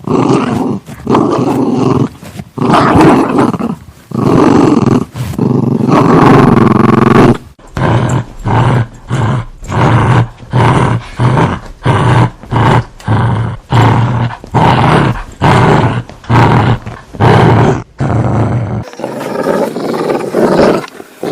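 Dog growling: several long, loud growls, then a run of short growls about two a second, like a growl on each breath. About two seconds before the end it gives way to a quieter, different rumbling growl.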